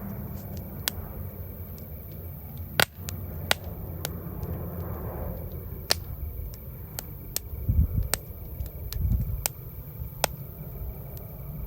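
Wood campfire crackling, with irregular sharp pops of varying loudness over a steady low rumble. One pop about three seconds in is louder than the rest, and two low thuds come in the second half.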